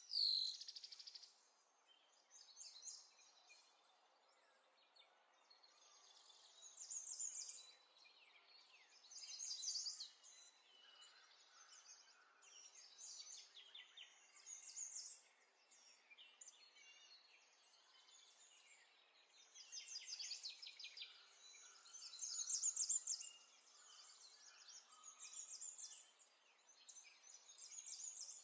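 Faint birdsong: short, high trilled phrases repeating every two to three seconds.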